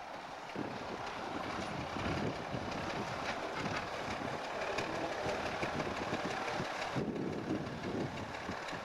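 Heavy engine running steadily at low revs in the rail yard, with an abrupt change in the sound about seven seconds in.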